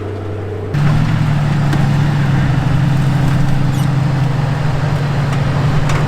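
Off-road truck engine running steadily, then about a second in the revs jump up sharply and hold at a higher, louder pitch under throttle.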